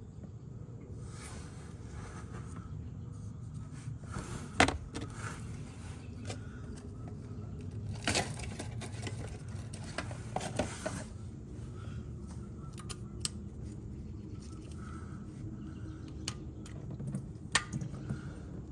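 Scattered metal clinks, knocks and scrapes of tools and parts being handled under a car during an oil drain, over a steady low background; the sharpest knock comes about four and a half seconds in.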